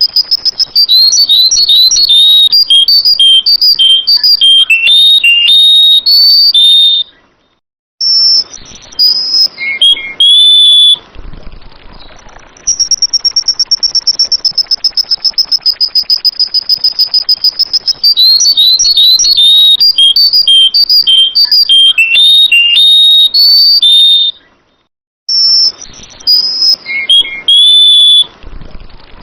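Sooty-headed bulbul (kutilang) singing: runs of quick, bubbly whistled notes, high and loud, in two bursts of song that alternate with a steady high trill. The same stretch of song and trill comes round twice.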